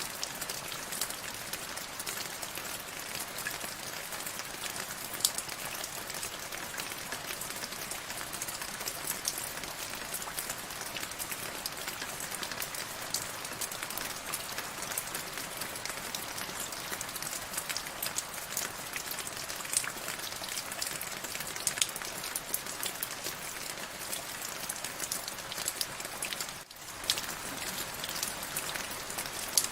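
Steady rainfall, an even hiss dotted with many small, sharp drop hits. The sound briefly dips near the end before carrying on.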